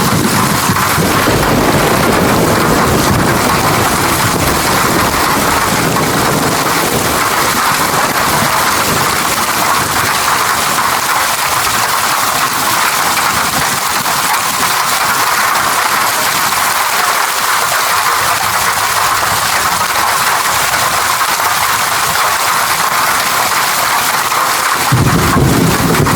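Steady heavy rain, a dense even hiss. Low thunder rumbles under it at the start, fade out, and a fresh rumble comes in near the end.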